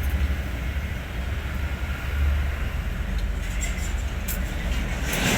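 Hino 500 truck's diesel engine running with a steady low rumble, and a short hiss near the end.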